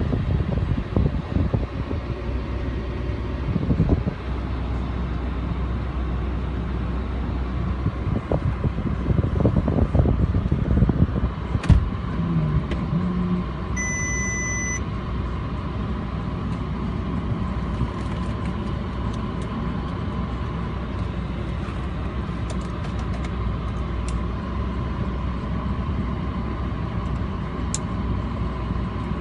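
Bentley 6.0-litre twin-turbo W12 car running with a steady low rumble and several irregular thumps in the first dozen seconds. A short high beep comes about halfway through.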